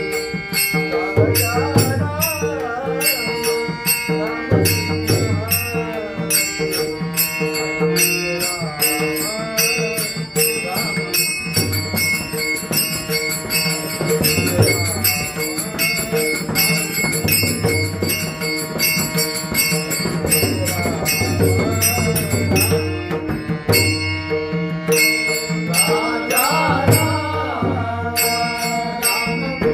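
Marathi varkari devotional bhajan: a man sings long, winding melodic lines over steady held notes, with a drum and small hand cymbals keeping an even beat.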